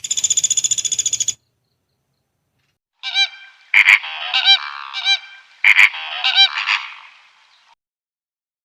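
Geese honking: a run of loud, repeated calls lasting about four seconds, opening with a brief rapid high-pitched trill.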